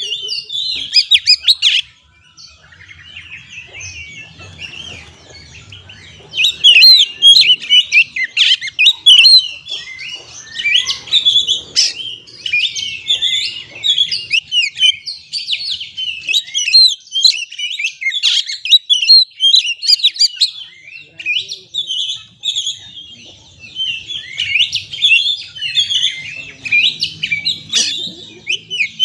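Oriental magpie-robin (kacer) singing a fast, varied song of rapid chirps, trills and whistles. The song goes quieter and sparser for a few seconds near the start, then comes back dense and loud from about six seconds in.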